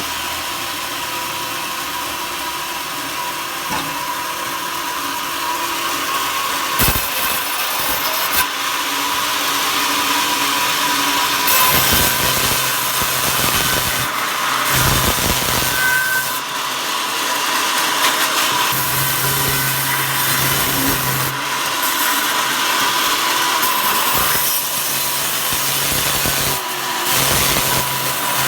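Wood being sawn, a steady cutting noise throughout, with a low hum joining in from about 12 seconds.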